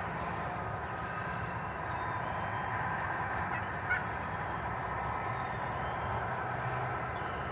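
Wild turkeys calling in the field, over a steady low background rumble, with one short click about four seconds in.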